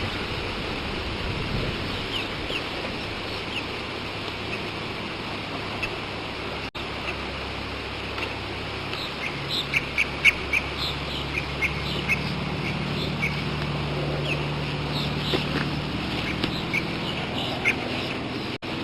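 Birds chirping and calling in short, high notes over a steady background hiss. The calls grow busier and louder about halfway through, and the sound cuts out for an instant twice.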